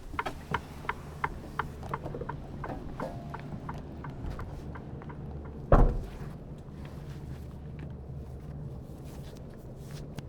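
Semi truck's diesel engine idling with a steady low hum, under a run of sharp, even clicks, about three a second, that die out about three seconds in. A single heavy thump comes near the middle.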